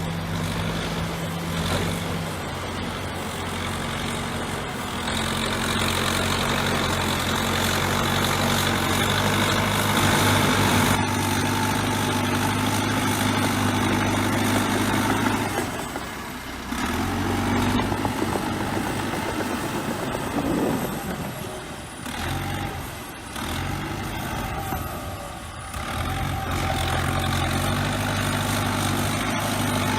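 Bulldozer diesel engine running and working, its pitch stepping up and down as the load and throttle change, with a few short dips in loudness in the second half.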